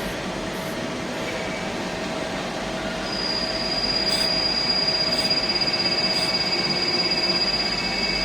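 DMG Sprint 20 Linear CNC lathe running, a steady mechanical noise. About three seconds in, a high steady whine joins and the sound gets louder.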